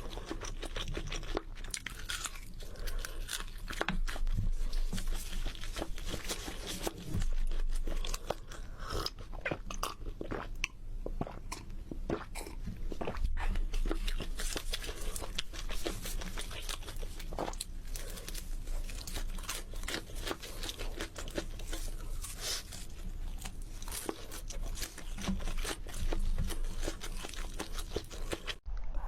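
Close-miked eating: repeated crunchy bites and chewing of chicken, with many short crackling crunches.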